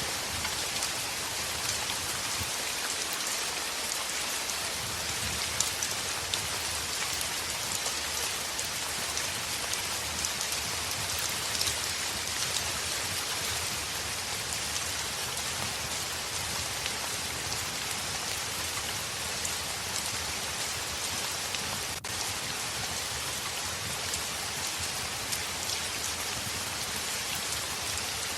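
Heavy rain pattering on a window: a steady, dense hiss with scattered drop ticks.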